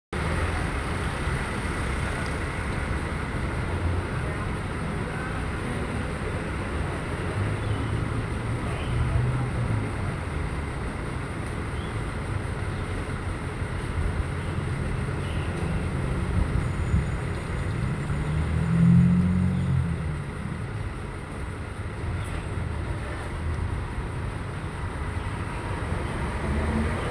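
Steady outdoor background noise: a low rumble with a faint hiss above it, swelling briefly about two-thirds of the way through.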